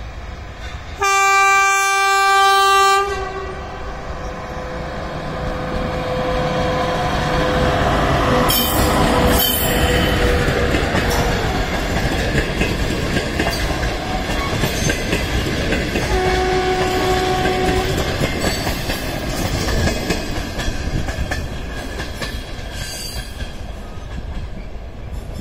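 SS8 electric locomotive sounding one loud horn blast of about two seconds, about a second in. Its passenger train then rolls past with a steady rumble and clickety-clack of coach wheels over the rail joints. A shorter, fainter horn blast at the same pitch comes about two-thirds of the way through.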